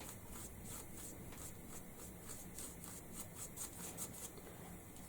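Paintbrush bristles dry brushing across a chopping board in quick short scratchy strokes, about three a second, stopping about four seconds in.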